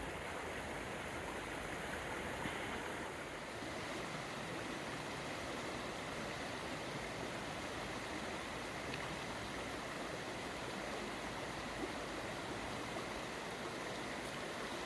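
Small upland stream running with a steady rush of water.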